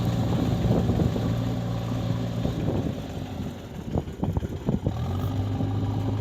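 Diesel engine running steadily. Its note fades about halfway through and comes back, with a few sharp knocks and clatters in between.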